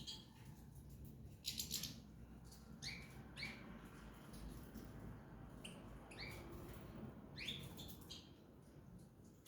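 Small pet birds chirping in short, scattered calls, with a brief louder flurry of chirps about one and a half seconds in.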